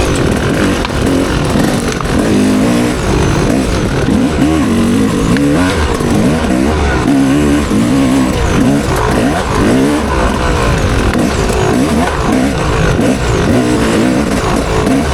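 Motocross bike engine revving hard and falling back again and again as the rider works the throttle and shifts around the track, under steady wind and roaring noise.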